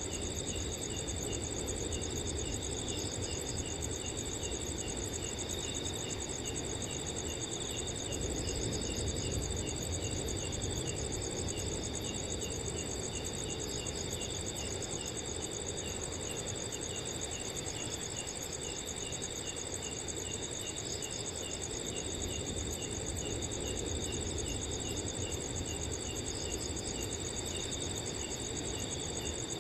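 A chorus of crickets: several trill without pause at different pitches while another chirps in an even, regular pulse. Underneath runs a steady low rush of wind.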